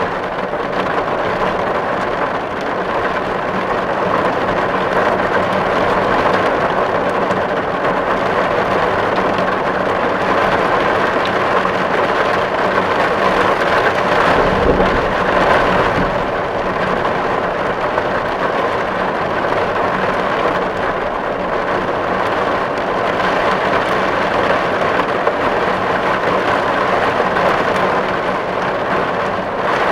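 Steady heavy rain drumming on a tin roof, a dense even patter of drops on metal. A low rumble swells briefly about halfway through.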